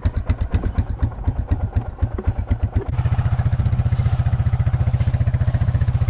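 A vehicle's engine running with a low, pulsing beat. About three seconds in it settles into a steadier, more even beat.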